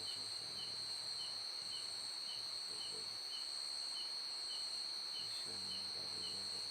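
Night insects calling: a steady, high-pitched trill from crickets runs throughout, with a separate short chirp repeating about twice a second. A faint low murmur comes in a little before the end.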